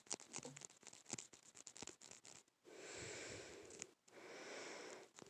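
Faint: a quick run of small clicks and taps, then two slow breaths close to the microphone, each about a second long.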